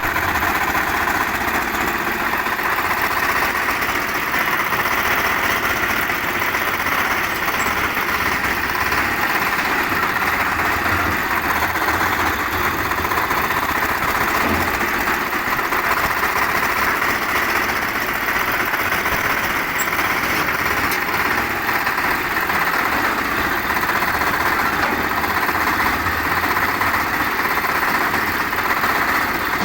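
Concrete mixer machine with a lift attachment, its engine running steadily and loudly without let-up.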